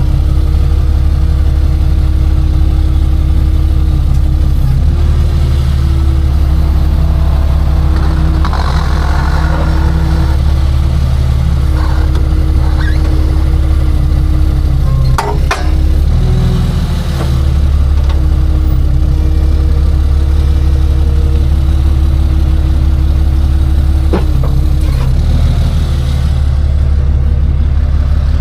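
Tow truck's engine running steadily while driving, a loud low drone heard from inside the cab, with a couple of brief clicks about halfway through and again near the end.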